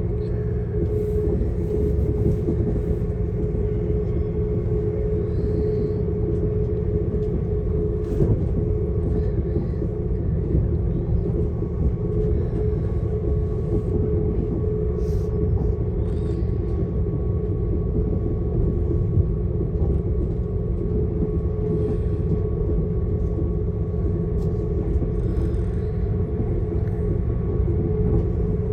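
Passenger train running along the line: a steady low rumble with a constant hum and occasional light clicks.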